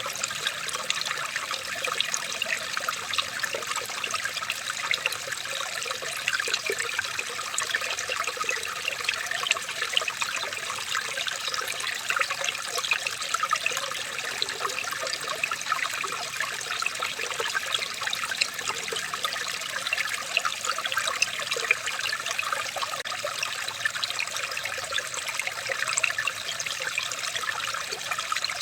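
Running water trickling steadily, with many small splashes and droplets over an even wash.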